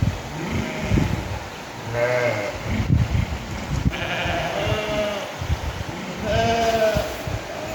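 Sheep in a flock bleating: three separate bleats a couple of seconds apart, the middle one longest, over a low, uneven rumble.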